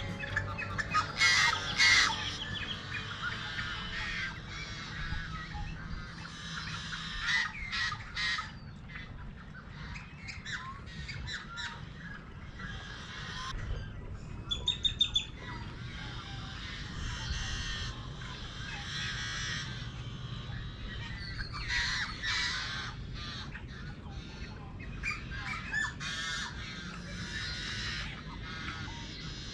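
Marsh birds calling, many short squawks and chirps overlapping, with a quick run of sharp repeated notes about halfway through.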